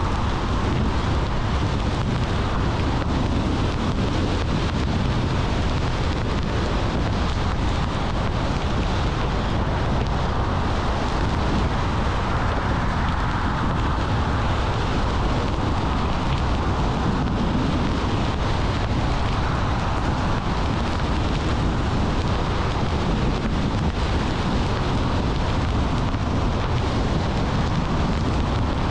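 Steady road noise of a car driving at speed: a low rumble of tyres and engine with wind noise over it, unchanging in level.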